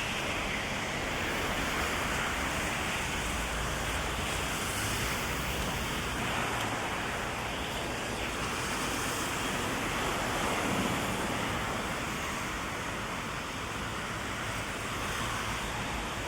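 Heavy rain falling on a city street, a steady wash of noise that swells and eases slowly.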